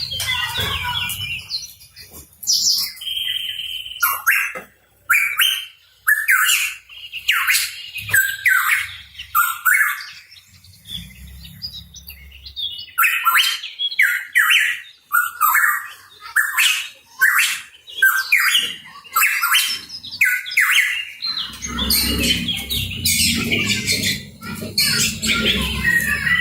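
Pitohui calling in quick runs of short, harsh chirps and squawks. A low rumble sits under the calls briefly midway and again through the last few seconds.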